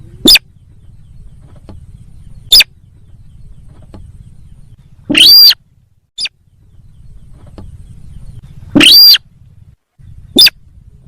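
Lure-call recording of the sintar sawah, a paddy-field bird: loud, sharp call notes a couple of seconds apart, some short and two longer arched calls around the middle and later, over a low steady hum.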